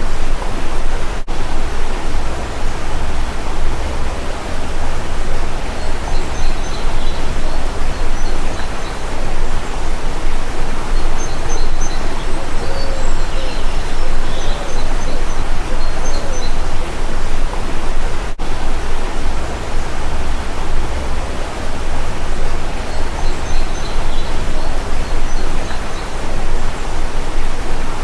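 Steady rushing of a flowing stream, with faint bird chirps now and then.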